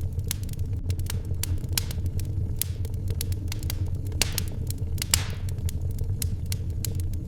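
Wood fire in a fireplace crackling, with irregular sharp pops over a steady low rumble. Two louder pops with a short hiss after each come a little past the middle.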